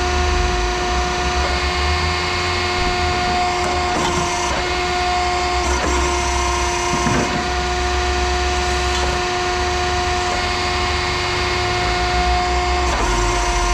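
A machine running steadily with a constant hum and whine, and a few short knocks or clanks about four, six, seven and thirteen seconds in.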